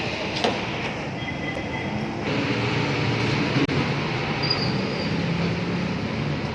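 Steady street traffic noise, a little louder from about two seconds in, with a couple of sharp clicks.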